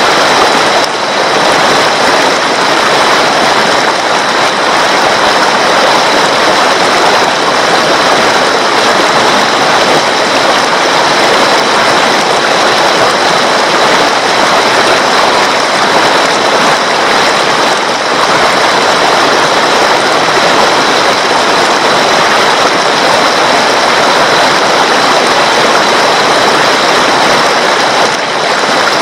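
Water of a stream rushing steadily, with a thin, constant high-pitched tone running through it.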